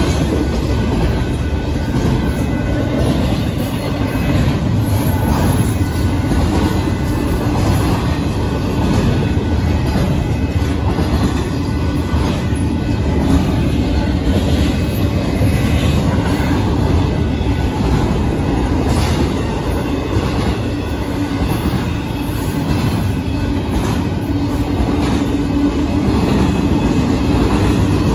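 Union Pacific double-stack intermodal train rolling past at a grade crossing: a steady, loud rumble of the container well cars' steel wheels on the rails, with scattered clicks.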